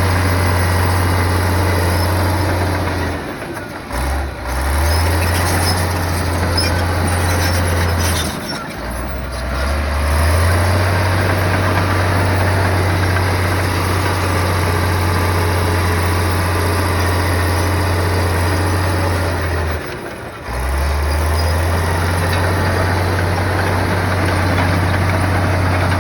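Heavy bulldozer's diesel engine running steadily, with three short dips about 4, 9 and 20 seconds in, each followed by the engine note climbing back up.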